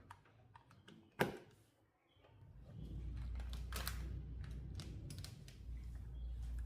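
Light clicks and a sharp knock about a second in, then a steady low hum sets in and holds.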